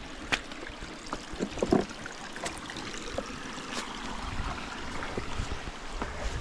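Steady running water, a stream trickling and gurgling, with scattered light clicks and a few soft low thumps in the second half.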